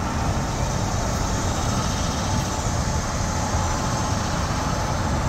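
Steady rumble of an approaching freight train led by two GE ES44AC-H diesel-electric locomotives.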